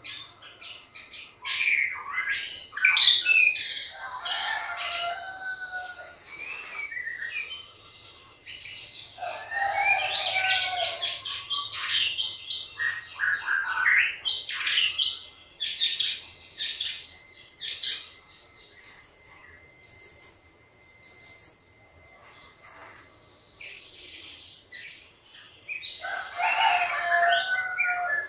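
White-rumped shama singing a long, varied song of rapid whistles and chattering phrases in bursts, broken by short pauses. Around the middle it repeats a clear note about once a second.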